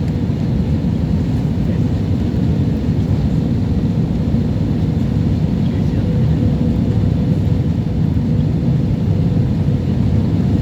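Steady cabin noise inside a Jetstar Japan airliner on approach: a low, even rumble of airflow and engines with a faint steady hum.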